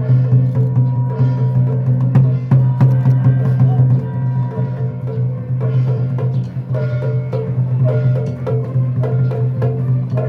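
Taiwanese folk-ritual percussion music: quick, dense drum and wood-block strokes, with short repeating pitched notes joining in from about halfway, over a steady low hum.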